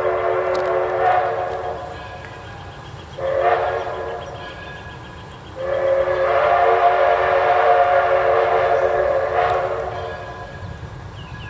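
A locomotive whistle sounding a steady multi-note chord: the end of a long blast, a short blast, then another long blast.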